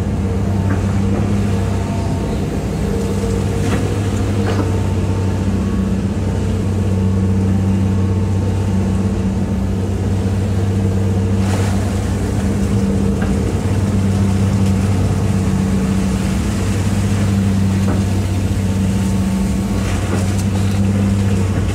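Hitachi EX200-5 excavator's diesel engine running steadily as a low, even hum, with a few faint knocks from the machine digging.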